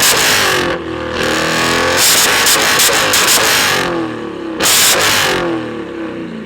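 Muscle car V8 engine revved hard in three blips, about a second in, over the next few seconds and again briefly near the end, its note dropping back between them with rapid crackling from the exhaust.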